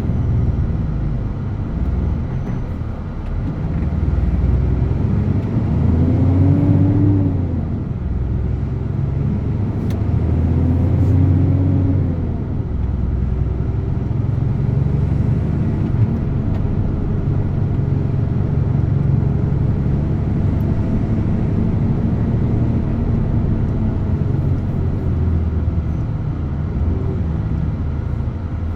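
DAF truck's diesel engine running while driving, its pitch rising and falling twice about 5 and 10 seconds in as it speeds up, then running steadily.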